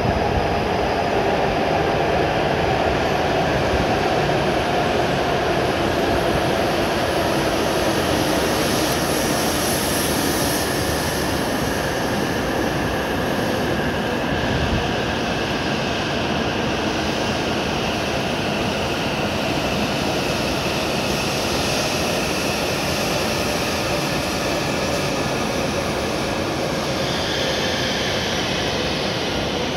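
W7 series Shinkansen train pulling into the station and slowing to a stop. It makes a steady running noise, with whines that fall slowly in pitch as it slows.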